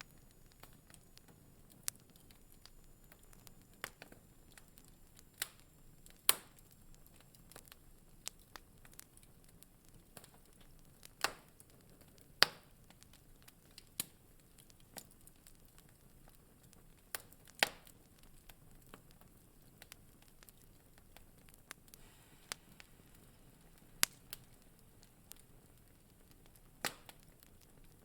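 Wood fire crackling in a fireplace: irregular sharp pops and snaps over a faint hiss, a few of them much louder cracks.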